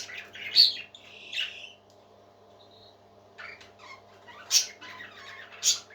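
Parrot chicks giving high, squeaky chirps and calls, with a sharp loud squawk about half a second in and two more near the end, and a quiet gap in the middle. A steady low hum runs underneath.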